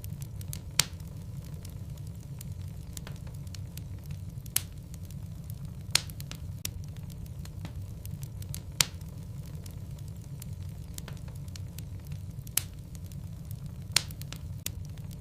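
Wood logs burning in a fireplace: a steady low rumble of the fire with light crackling and about six sharp pops at irregular intervals.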